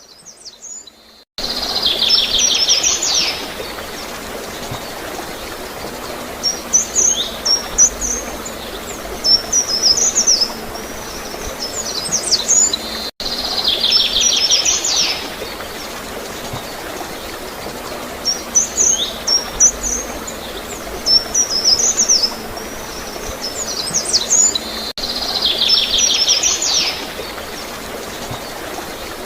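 Small songbirds chirping and trilling, with a fast trill repeating at intervals, over the steady rush of flowing, gurgling water. The same roughly 12-second passage repeats, starting over abruptly about a second in, again near the middle, and again a few seconds before the end.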